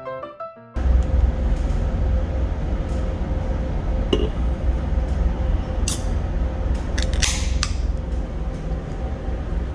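Background piano music cuts off, giving way to a steady deep rumble inside a moving vehicle, with a faint constant hum and a few scattered clicks and rustles.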